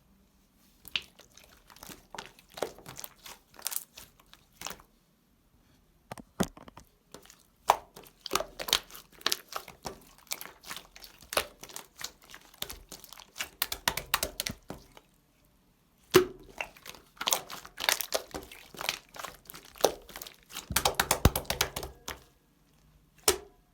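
Slime being kneaded, pressed and stretched by hand, giving bursts of crisp clicking and crackling as air pockets pop, with brief pauses between handfuls.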